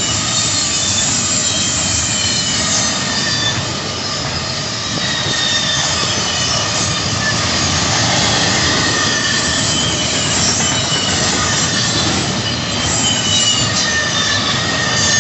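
Loaded intermodal freight train's double-stack well cars rolling past, steel wheels running on the rails in a steady loud rumble, with thin high-pitched wheel squeals coming and going.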